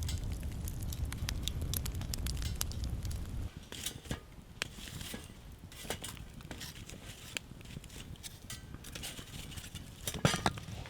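Wood fire crackling, with scattered sharp pops and snaps. A low rumble underneath stops abruptly about three and a half seconds in, and a quick cluster of louder snaps comes near the end.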